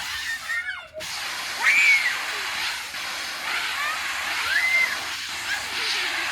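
Water hissing out of hose-fed homemade spray nozzles, with children's high squeals rising and falling over it several times. The sound drops out briefly about a second in.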